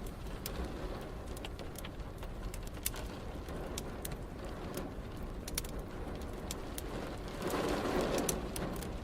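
Wood fire crackling, with frequent sharp pops, over a steady hiss of rain. About seven and a half seconds in, a louder swell rises and fades over roughly a second.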